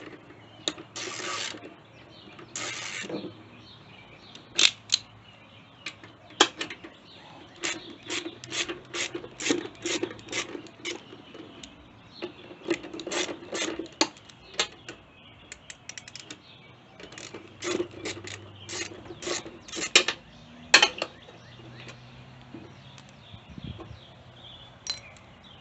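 Ratchet wrench clicking in quick runs as the mower engine's retaining bolts are worked loose from the deck, with a couple of short hissing bursts near the start. The clicking stops about twenty seconds in.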